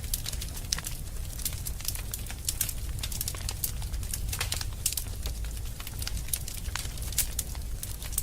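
Wood fire burning in a fireplace: irregular sharp crackles and pops, several a second, over a low steady rumble.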